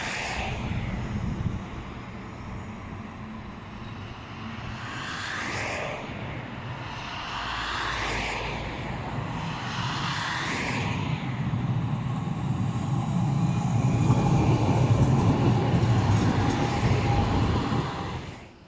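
Street traffic with vehicles passing one after another, then a tram running close by, its low rumble and a faint steady motor whine growing to the loudest point near the end before the sound cuts off suddenly.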